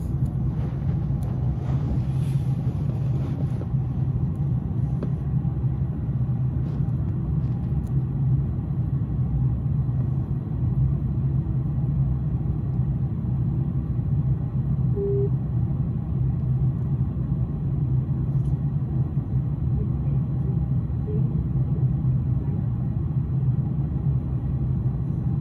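S-Bahn electric commuter train giving a steady, even low rumble.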